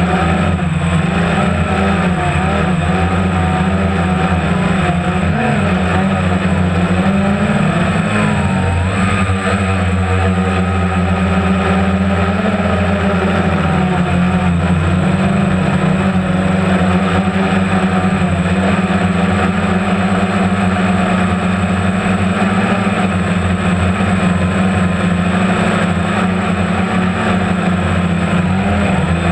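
Motorboat engine running steadily at a constant speed, with a deep, even hum.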